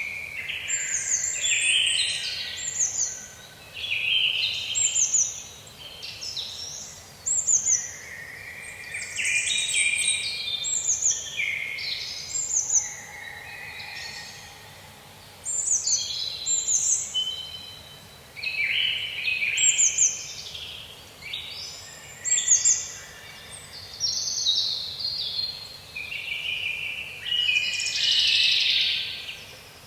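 Forest songbirds singing in a dense, overlapping chorus of chirps and short falling phrases that follow one another every second or two.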